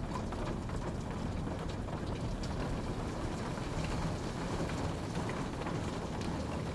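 Steady rain falling, with a continuous low rush and many small scattered drop ticks.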